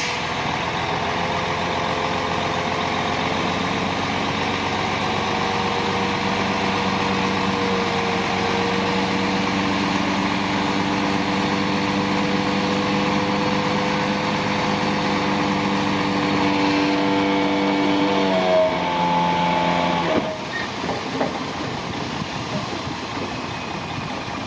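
Heavy diesel engine of an earthmoving machine running steadily under load; its pitch slides down near the end, and about twenty seconds in the engine note drops away sharply, leaving a quieter rumble.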